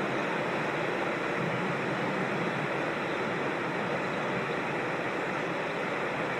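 Steady rush of flowing water from a creek or small waterfall, an even unbroken noise with no change in level.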